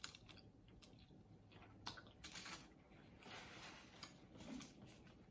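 Faint close-up eating sounds: soft chewing and scattered mouth clicks, with a couple of short soft rustles, like a paper napkin wiping the hands, around the middle.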